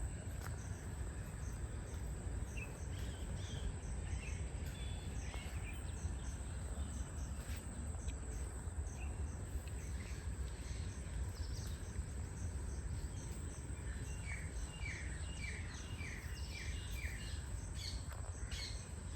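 Forest ambience: scattered bird chirps over a steady low wind rumble and a constant high-pitched hum. Near the end a bird gives a quick run of about six short repeated calls.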